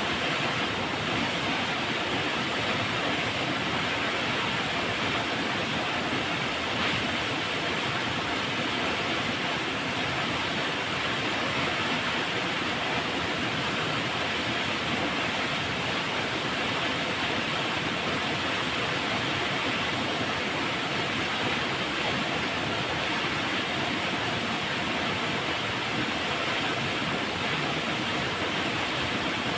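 River water flowing and rushing steadily, an even hiss with no separate splashes or changes.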